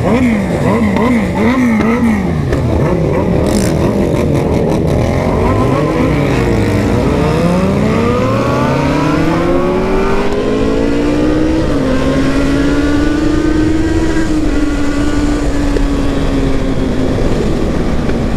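Sport motorcycle engines revving in quick repeated blips for the first few seconds, then an engine accelerating with its pitch rising steadily, dropping once at a gear change about twelve seconds in, and settling to a steady cruise. Other bikes' engines can be heard running alongside.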